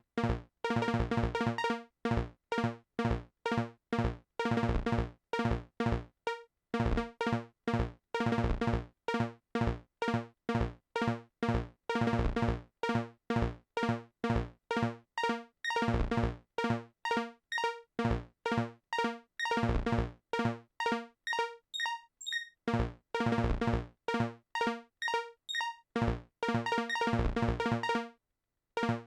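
Synthesizer notes played as rapid, chopped stabs, several a second, in a stuttering electronic pattern with short breaks. The pattern stops about a second before the end.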